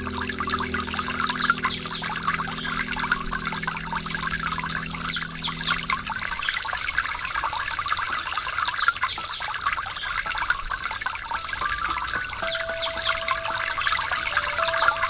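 Waterfall rushing steadily. Sustained low music notes fade out about six seconds in, and a new held note comes in near the end.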